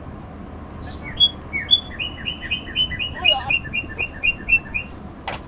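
A songbird singing: a couple of higher opening notes, then a quick run of about a dozen repeated notes, about four a second, over steady low background noise. A sharp click comes near the end.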